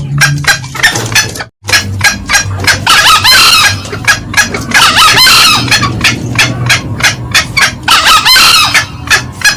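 Green junglefowl lure calls: a rapid, even run of cackling notes, several a second, with three short high-pitched crows cutting in about three, five and eight seconds in.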